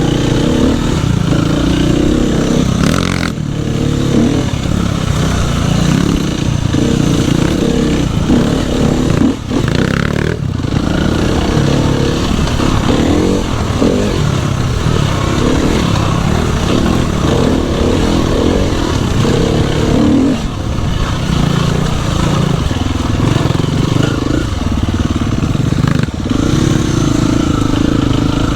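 Dirt bike engine running under way on a trail, its revs rising and falling repeatedly as the throttle is opened and eased off.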